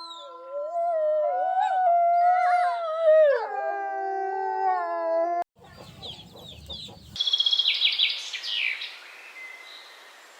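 An animal howling: long held notes that slide in pitch, several voices overlapping, cut off abruptly about five and a half seconds in. After a short noisy stretch, a bird gives a quick chirping trill.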